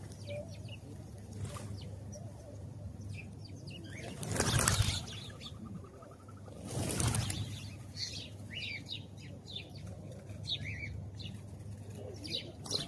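House sparrows chirping in short, repeated calls, broken by two loud bursts of wing flapping about four and seven seconds in.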